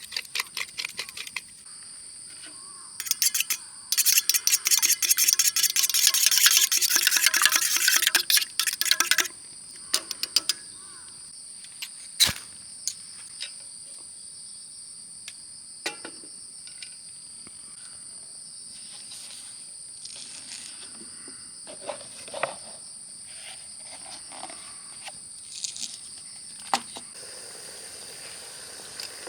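Crickets chirring steadily in a night-time insect chorus. A few seconds in, a dense run of rapid clicking and crackling lasts about five seconds, followed by scattered knocks and one sharp crack.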